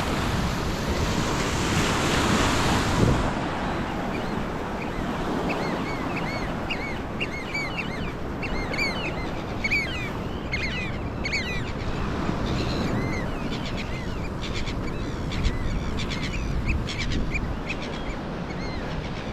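Many shorebirds calling in short, repeated piping notes over a steady hiss of surf and wind; the calls grow thick from about six seconds in.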